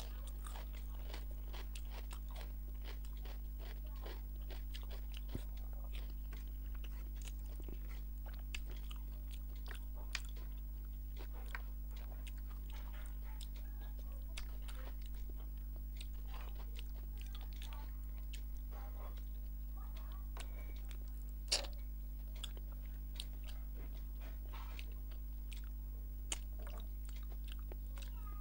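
Close-up chewing and biting of rice and rohu fish head curry, with wet smacking and crunching and many small crackles of fish-head bone, and one sharper crack a little past two-thirds through. A steady low electrical hum underneath.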